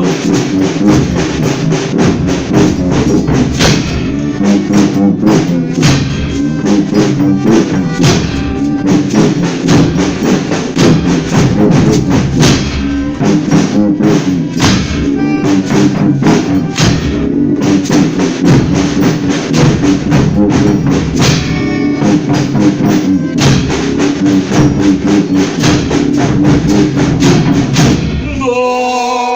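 Folia band playing an instrumental interlude between sung verses, with a steady drum and percussion beat under sustained instrumental chords. Voices begin singing again right at the end.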